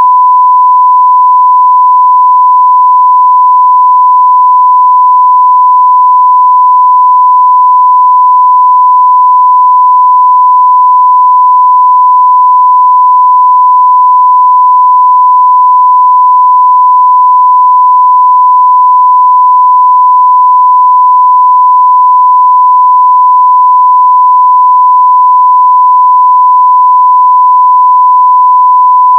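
A continuous 1 kHz sine-wave test tone at full level (0 dB), a single steady pure pitch with no change.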